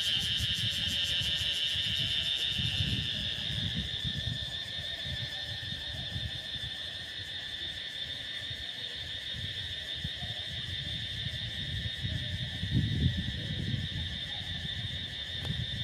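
Steady outdoor insect chorus, a continuous high-pitched shrilling, over a fluctuating low rumble.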